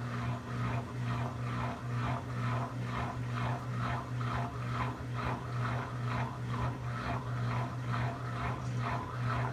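Brastemp 17 kg top-loading washing machine agitating its load: water and clothes swish back and forth about two to three times a second over a steady motor hum.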